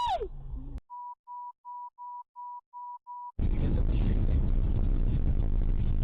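The tail of a high, falling cry, then seven short, evenly spaced beeps at a single pitch, after which the steady road and engine noise of a moving car, picked up by a dash cam, cuts in abruptly about three and a half seconds in.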